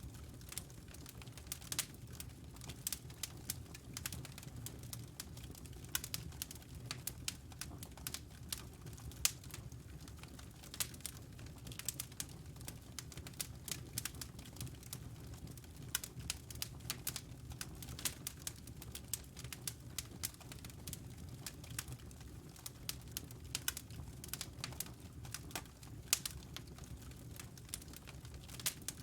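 Wood logs burning in a fireplace, crackling with many irregular sharp pops and snaps over a steady low rumble of the flames.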